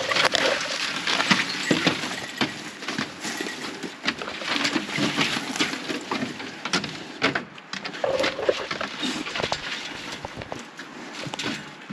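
A hiker's footsteps crunching along a trail, with clothing and gear rustling: a dense, irregular run of crunches and clicks.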